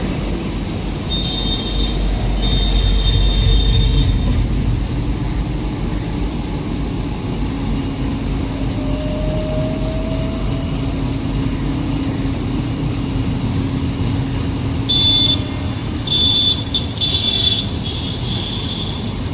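Train running with a steady low rumble. A high squeal comes and goes twice, briefly about a second in and again near the end.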